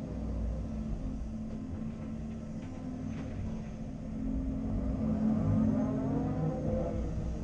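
Caterpillar 330 Next Generation excavator working, its diesel engine running steadily and then rising in pitch and loudness about four seconds in as the hydraulics take load, with a few faint knocks around the middle.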